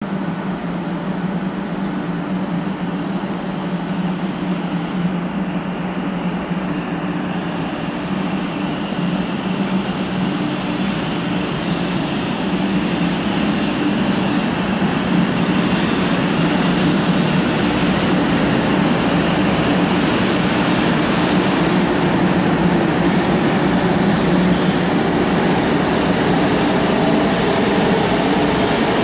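A 500 series Shinkansen train pulling away from a station: a steady hum of traction motors and rolling wheels that grows gradually louder as it accelerates, with a rising whine near the end.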